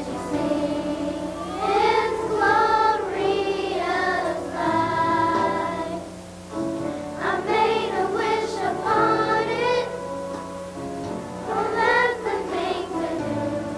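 Children's choir singing a slow song in phrases over a steady instrumental accompaniment, with short breaths between lines about six and ten seconds in.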